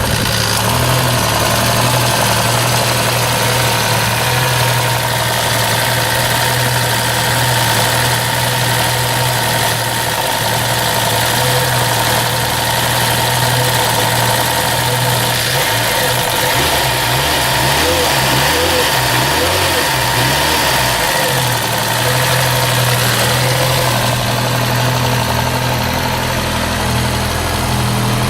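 Citroën BX 19 TZi's 1.9-litre four-cylinder petrol engine idling steadily while warming up after a cold start, its low note wavering briefly about halfway through before settling again.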